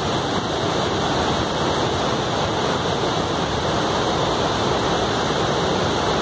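Victoria Falls on the Zambezi River: a steady, loud rush of falling water.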